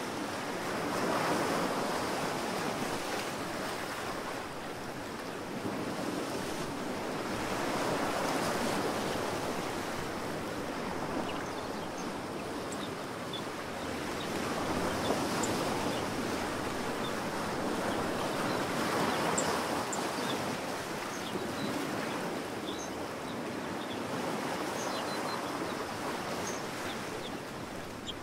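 Ocean waves washing in and drawing back, swelling and fading every several seconds, with faint high chirps scattered through the latter half.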